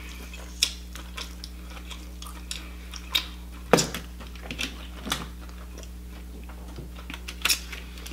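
Close-up eating sounds: chewing soft cooked lobster meat, with wet mouth clicks and smacks, a few louder ones scattered through, over a steady low hum.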